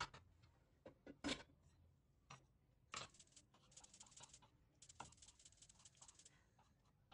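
Quiet food-preparation handling sounds: a few light clicks and knocks, then two stretches of soft, scratchy rustling, about a second and about a second and a half long.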